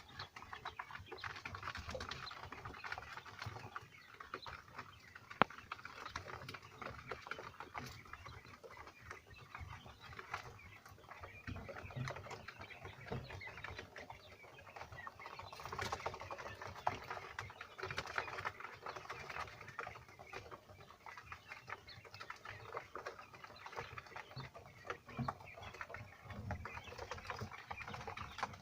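Five-day-old Texas quail chicks cheeping, with a continuous patter of small taps and scratches.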